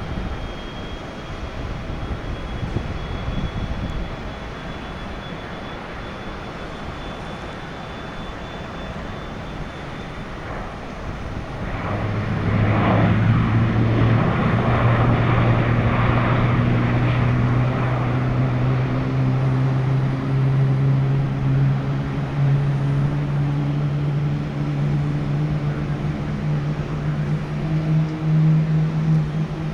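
GE90 turbofan engine of a Boeing 777-200ER spooling up. About twelve seconds in, a loud hum sets in with a burst of rushing noise, and the hum's pitch climbs slowly and steadily through the rest.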